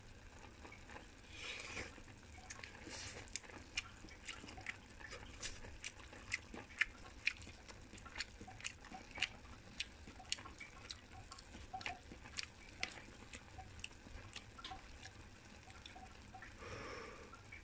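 Close-miked eating sounds from a mouthful of soft tofu and chicken: wet chewing and smacking, with many sharp irregular clicks about one or two a second.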